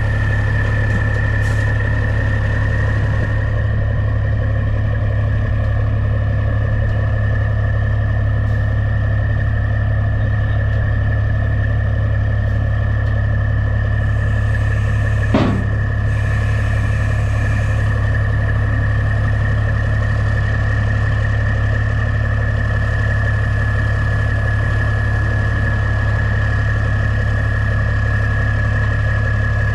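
Heavy semi truck's diesel engine running steadily with a constant low drone and a steady high-pitched whine over it. There is a single sharp click about halfway through.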